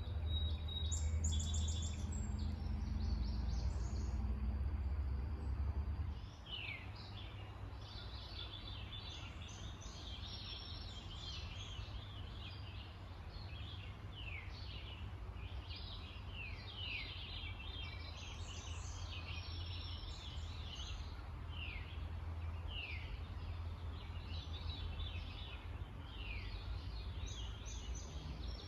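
Wild birds singing and calling, mostly short high notes that each slide downward, repeated over and over from many points. Underneath is a low steady rumble that is heavier for the first six seconds, then drops off suddenly.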